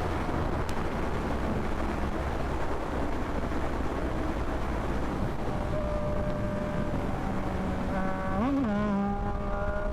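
Yamaha MT-09 three-cylinder motorcycle engine running at a steady speed under heavy wind rush on the microphone. About eight and a half seconds in there is a quick rev up and back down.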